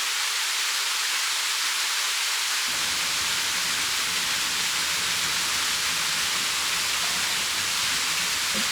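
Rushing water of a mountain stream, a steady hiss with no breaks.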